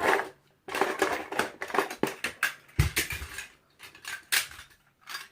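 Small toy cars clattering and knocking together as they are handled and dropped, a quick, irregular run of clicks and rattles that eases off in the second half with a few last knocks.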